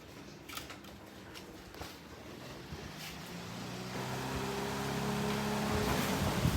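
Electric fan spinning up: a motor hum that rises slowly in pitch, along with a growing rush of air that gets louder over the last few seconds.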